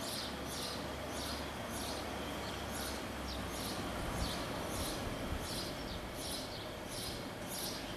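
Small birds chirping repeatedly, short high chirps about two to three times a second, over a steady low background rumble.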